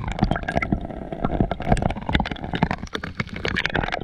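Sea water splashing and sloshing close around the camera as a swimmer moves at the surface, with a quick, irregular run of splashes.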